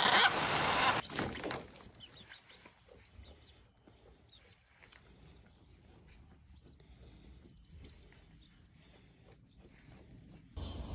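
Faint bird chirps and light scattered clicking over a quiet background, after a loud noisy first second.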